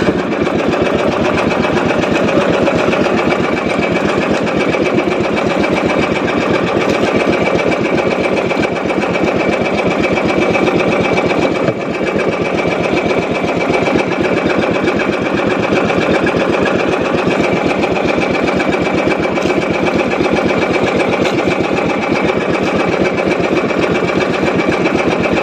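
Small fishing boat's engine running steadily at trolling speed, with a fast even pulse and a steady high whine, dipping briefly about halfway through.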